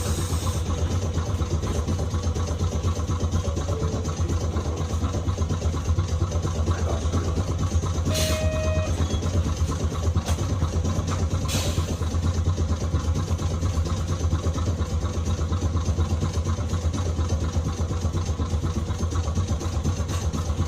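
Nagasaki Electric Tramway 370-series streetcar standing at a stop, its onboard equipment giving a steady low hum. A short burst of noise with a brief tone comes about 8 seconds in, and another short noise about 11 seconds in.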